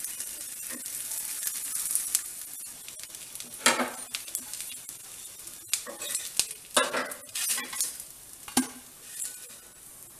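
Rotti frying in oil on a black tawa, with a steady high sizzle that fades toward the end. A wooden spatula scrapes and knocks against the pan several times in the second half.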